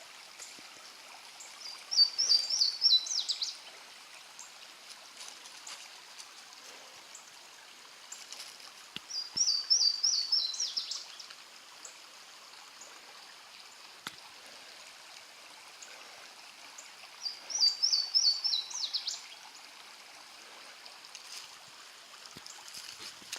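A songbird sings the same short song three times, each a quick run of repeated high notes ending in a falling flourish, over the steady rush of a creek.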